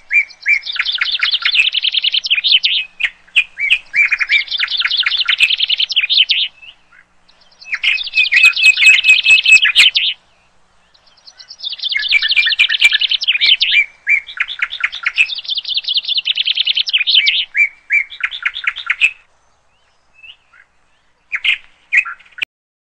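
Birds chirping loudly in rapid, fast-ticking chattering bouts of a few seconds each, separated by short pauses, thinning to a few brief calls near the end.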